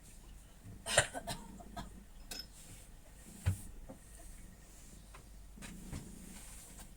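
A few scattered sharp clicks and knocks, the loudest about a second in, with a dull thump midway.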